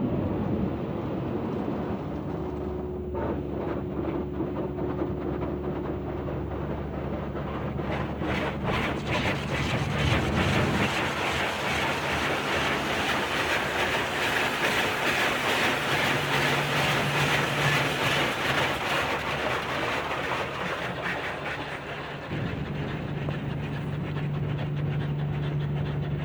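Tammermatic T700 rollover car wash working over a car, heard from inside the car: a steady motor and pump hum under a dense hiss and rapid patter of the wash on the car's body. The patter is heaviest in the middle, and the hum changes pitch twice in the later part.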